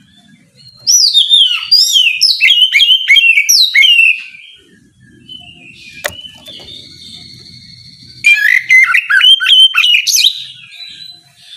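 Oriental magpie-robin singing loud, rapid, varied whistled phrases in two bursts: one from about a second in lasting some three seconds, and another about eight seconds in lasting two seconds.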